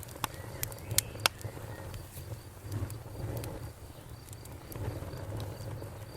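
Wood fire crackling in a fireplace, with a few sharp pops in the first second or so over a low, steady rumble of the flames.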